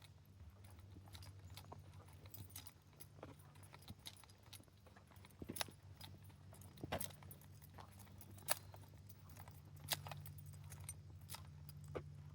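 Irregular footsteps with scattered sharp clicks and crackles, over a faint steady low hum.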